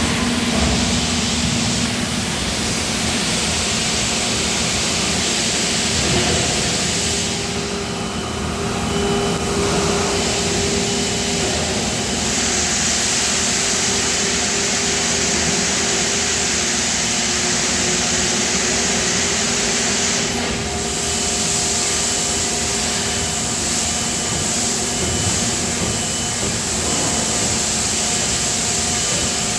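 Steady din of die-casting factory machinery: a running hum with a hiss over it, dipping briefly a couple of times.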